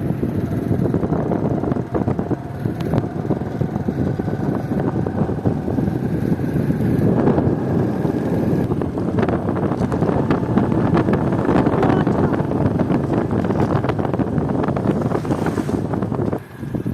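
Wind buffeting the microphone over a steady engine running, dropping off sharply near the end.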